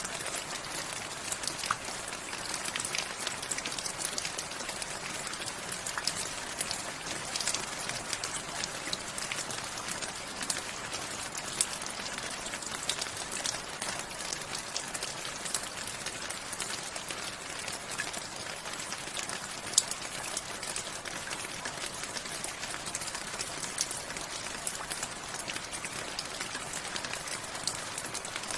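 Steady rain falling, a constant hiss dotted with many sharp drips and patters of drops.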